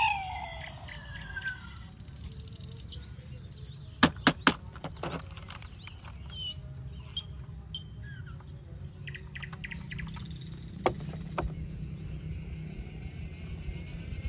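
Small birds chirping in short calls over a low steady background rumble, with a few sharp clicks, three close together about four seconds in and one more near eleven seconds.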